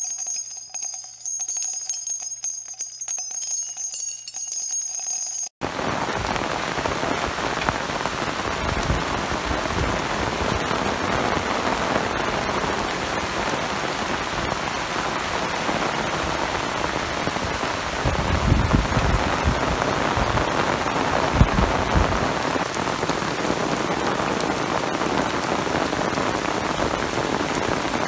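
A short intro jingle of steady, bell-like chimes, then from about five seconds in, heavy rain falling steadily on leaves and standing water, with a few low rumbles about two-thirds of the way through.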